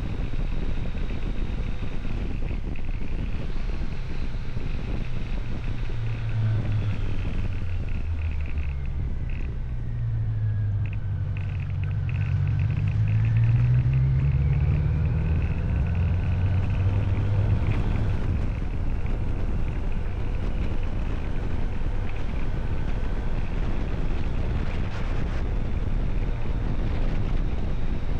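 Steady wind rumble on the microphone with a motor engine humming underneath; in the middle the engine's pitch rises and falls for about ten seconds.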